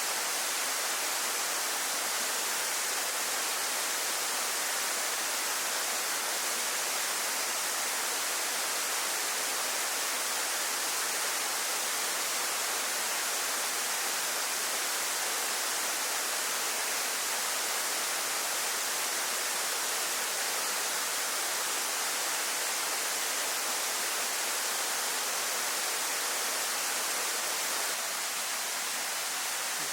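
Steady rush of a waterfall, an even hiss of falling water strongest in the high range with little low rumble; it dips slightly in level near the end.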